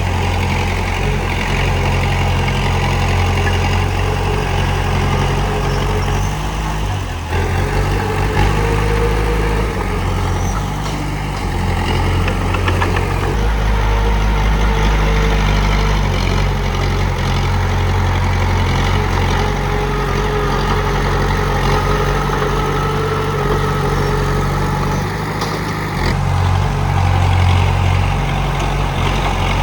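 Komatsu D31P bulldozer's diesel engine running steadily with a deep, low note. The engine note shifts briefly a couple of times, about a quarter of the way in and near the end.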